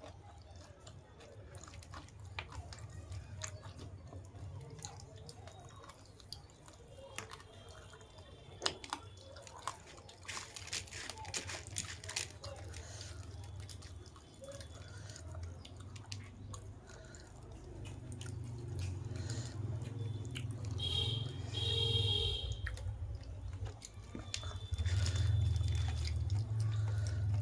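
Close-up eating sounds: wet chewing with many short mouth clicks and smacks, over a low steady hum that gets louder in the second half.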